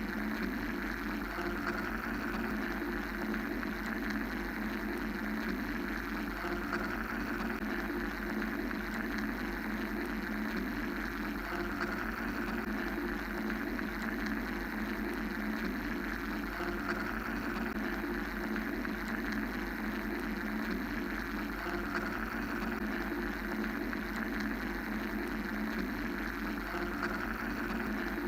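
Steady mechanical drone of white noise, a low hum under a hissing rush, with a gentle swell every five seconds or so.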